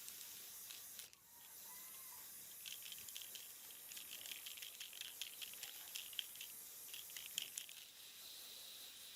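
Faint steady hiss with a run of quick, small scratchy clicks from about two and a half seconds in until nearly eight seconds, from hand work on a small object.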